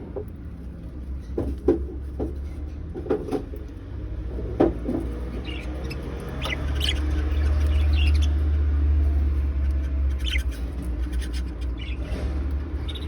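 Budgies chirping and chattering in short scattered calls, with a few brief clicks or taps among them. A steady low rumble runs underneath and grows louder about halfway through.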